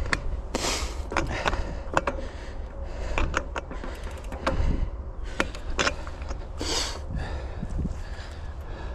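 A cycling shoe's cleat clicking and scraping against a clipless pedal again and again, failing to clip in as the foot slides off the pedal. A steady low wind rumble on the microphone runs underneath.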